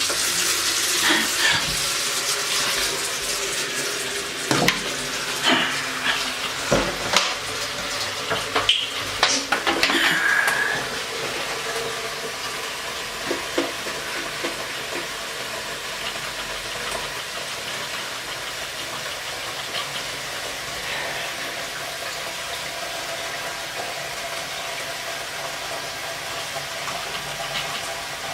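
Water running or pouring in a steady rush, with knocks and clatters in the first ten seconds.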